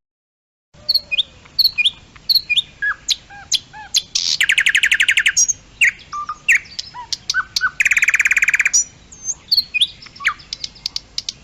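Nightingale singing, starting about a second in: varied whistled notes and chirps, with two long, fast trills of repeated notes in the middle.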